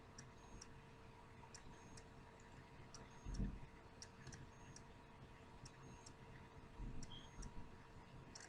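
Faint, regular clock ticking, a bit more than one tick a second, over a steady low hum, with two soft thumps about three and a half and seven seconds in.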